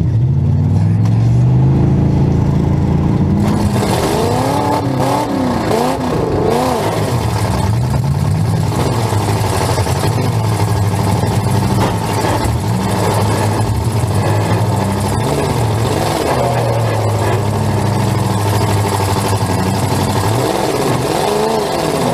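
A full-size demolition derby car's engine revving up and down over and over as the car manoeuvres, heard from inside the stripped cabin, with rattles and knocks.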